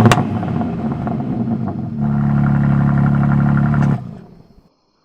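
BMW M2's 3.0-litre twin-turbo straight-six exhaust: a rev ends in a few sharp crackles, the engine settles. About two seconds in it is held at steady raised revs, then the sound cuts off abruptly about a second before the end.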